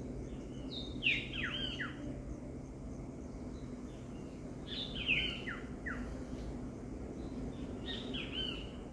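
A forest bird calling in three short phrases of quick falling notes, one roughly every three and a half seconds, over a steady low background hum.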